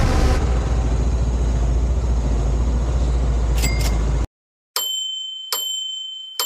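A loud steady rumble and hiss that cuts off abruptly about four seconds in, followed after a short silence by three bright bell-like dings, each ringing and fading away.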